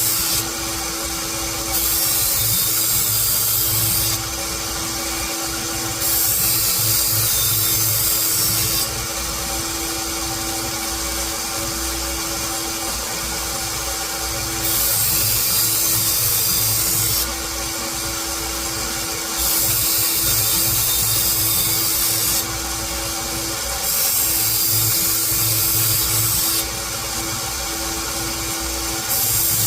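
Electric grinder running steadily while steel is pressed against it in repeated passes. Each pass lasts two to three seconds and adds a loud, hissing grind over the motor's steady hum.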